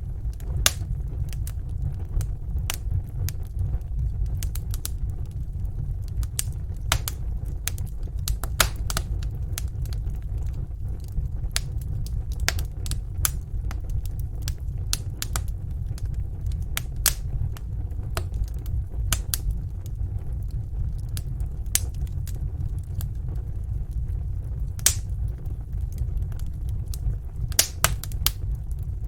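Wood fire burning in a fireplace: irregular sharp crackles and pops over a steady low rumble, with a cluster of louder pops near the end.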